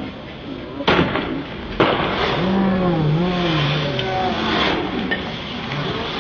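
Two sharp bangs about a second apart, followed by many voices in a crowd yelling and shouting.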